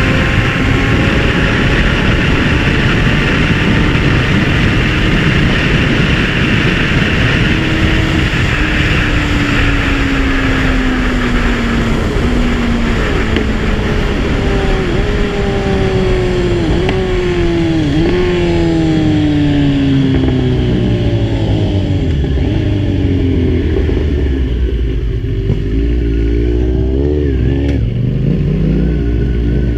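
Kawasaki Z1000's inline-four motorcycle engine slowing from speed: the engine note slides steadily downward, with a few quick blips partway through, while the wind rush fades, then it runs at low revs near the end.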